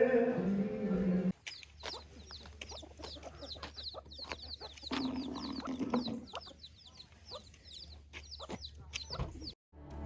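Chickens: a long run of rapid, high, falling peeps with a few lower clucks in the middle, after a second or so of music.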